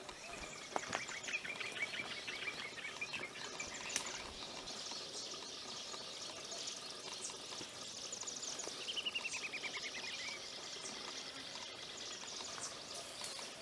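Common babbler singing: repeated high chirping notes, and a fast trill that falls in pitch about nine seconds in.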